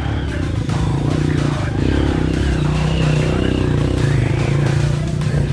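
Off-road motorcycle engines running steadily, their pitch shifting a few times.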